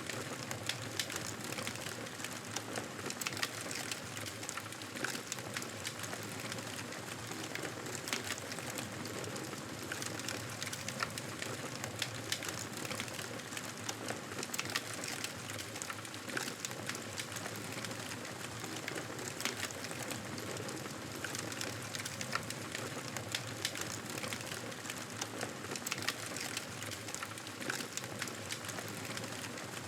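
Wood fire crackling steadily in a fireplace: frequent small pops and snaps over a constant soft hiss.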